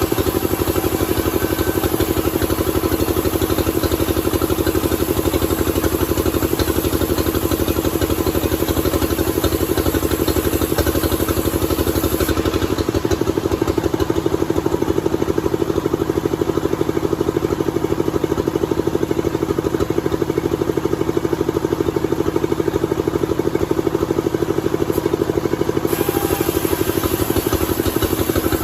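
A motor running steadily: an even hum with a fast, regular pulse, unchanged throughout.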